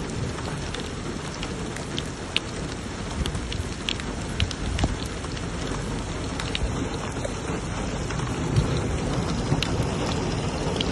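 Heavy rain falling steadily, with many individual drops striking close by as sharp ticks over a low rumble.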